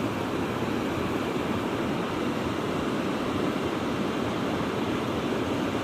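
Steady rushing noise of sea surf washing on a shore.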